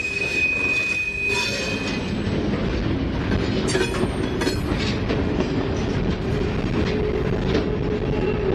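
Freight train of covered hoppers and tank cars rolling past at close range: a steady rumble of steel wheels on rail with scattered clanks and rattles. A high wheel squeal fades out about two seconds in, and a lower steady squeal comes in past the middle.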